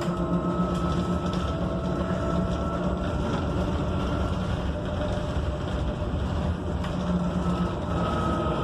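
Inside a Proterra Catalyst BE35 battery-electric bus under way: the electric drive's steady whine, several tones at once, over road rumble and cabin noise, with the lowest tone fading near the end.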